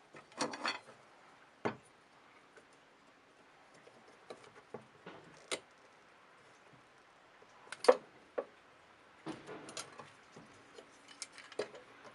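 Irregular clicks, taps and clinks of small hard parts and tools being handled on a work surface during disassembly of an old scale, with one louder knock a little before the middle.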